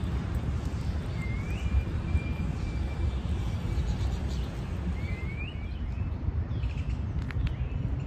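Birds calling over a steady low rumble. One rising whistle about a second in is held for over a second, two more short rising calls come around five seconds, and a few chirps follow near the end.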